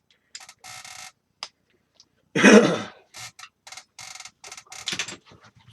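A man's single loud cough about halfway through, among short, fainter clicks and scrapes of things being handled.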